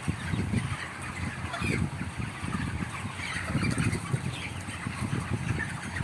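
Birds chirping in short scattered calls over a low, irregular rumbling noise.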